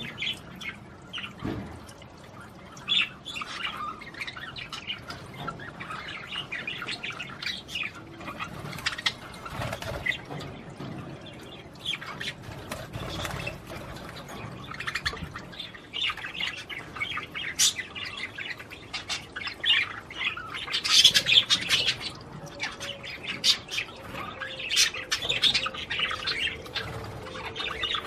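Budgerigars chirping in a continuous rapid chatter of short tweets and squawks. The chatter is loudest about three quarters of the way through.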